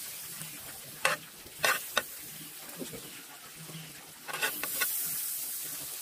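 Battered scallops frying in hot oil in a pan, a steady sizzle, with metal tongs clicking sharply against the pan three times. About four seconds in the sizzle swells louder as more battered pieces go into the oil.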